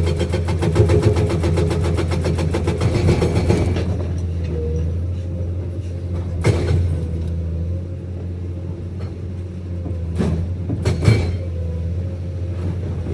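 Hydraulic breaker on a Komatsu PC210 excavator hammering at a rapid, even rate, stopping about four seconds in. The excavator's diesel engine keeps running, with a few sharp knocks later on.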